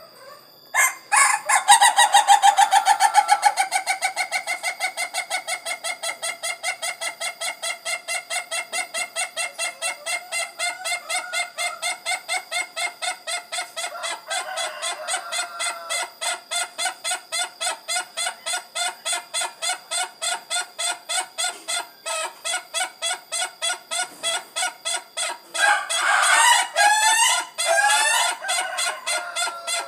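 A rooster's long crow, one unbroken run of rapid, evenly repeated notes at about four a second that carries on for nearly half a minute. A second, louder burst of calling joins in about 26 seconds in.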